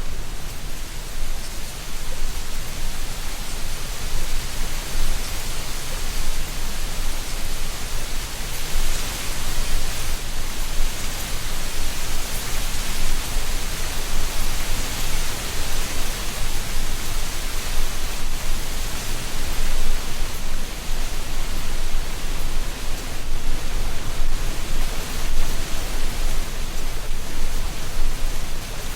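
Autumn wind blowing through tree tops, dry leaves rustling in a steady hiss that swells for a while before easing, over a low rumble.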